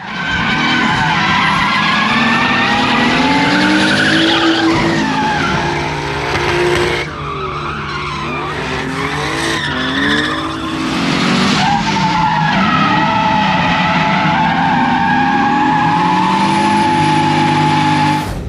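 A drift car's engine revving up and down with tyres skidding. It eases off for a few seconds midway, then holds a steady high rev through the last several seconds.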